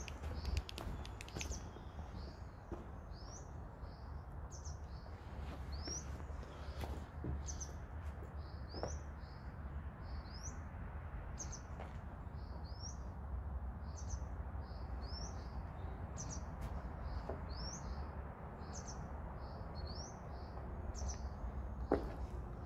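A small bird calling one short, high, rising chirp over and over, about one and a half times a second, over a steady low rumble, with a few sharp clicks near the start and near the end.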